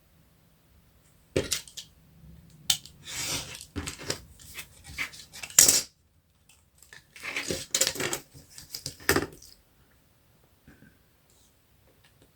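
Craft materials and tools being handled on a tabletop: a string of clicks, taps and scraping rustles in two spells, with quiet pauses between them.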